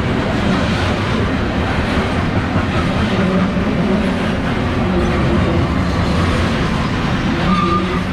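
Steel coal gondolas of a long freight train rolling past close by: a steady rumble and clatter of wheels on the rails.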